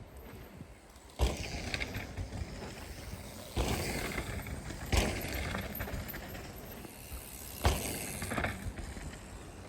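Mountain bikes landing jumps on a dirt trail. There are four sharp thuds, each followed by a rush of tyre and riding noise.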